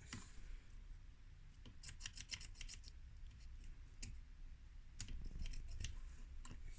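Faint, sharp clicks and light taps of small parts being handled: a quick run of them about two seconds in, then a few single clicks later, over a low steady hum.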